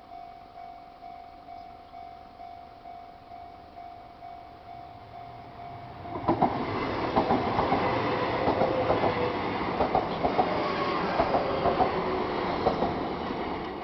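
Level-crossing warning bell ringing about twice a second. About six seconds in, a Kintetsu 6020-series train arrives and passes, slowing for the nearby station, with its wheels clacking over the rail joints. The train noise starts to fade near the end.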